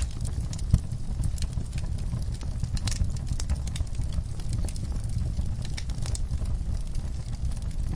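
Wood fire crackling, with frequent irregular sharp pops over a steady low rumble; one louder pop comes about three-quarters of a second in.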